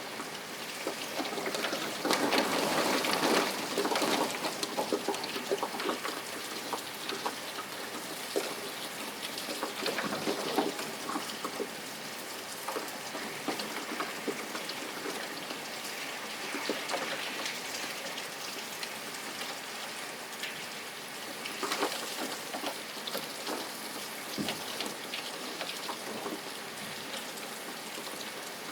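Steady rain, with single drops pattering close on a surface, a little heavier a couple of seconds in.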